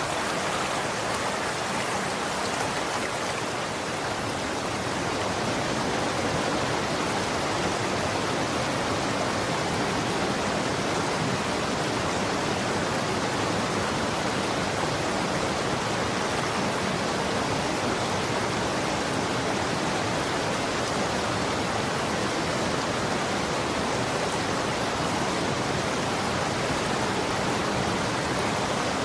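Running water flowing steadily, an even rushing hiss with no separate splashes or drips. It is a touch softer for the first few seconds.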